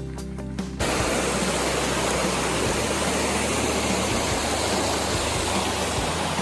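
Background music cuts off abruptly about a second in, giving way to a loud, steady rush of flowing water.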